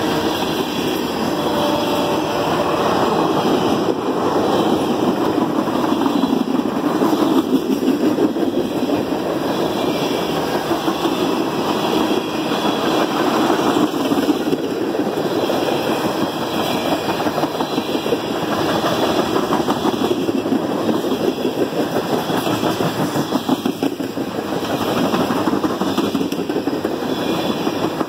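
Freight train's tank cars rolling past at speed: a steady rumble of steel wheels on the rails, with fast fine clicking and slight swells as the cars go by.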